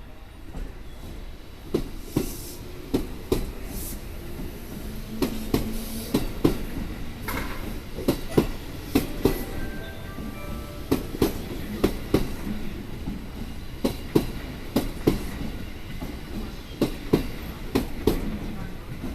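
A train running on the rails, its wheels clacking over rail joints in a steady series of sharp clicks, often in pairs, with a few short high squeals along the way.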